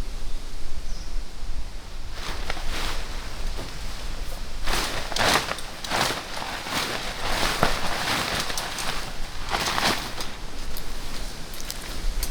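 Irregular rustling and crunching from about two seconds in until near the end, over a steady low rumble.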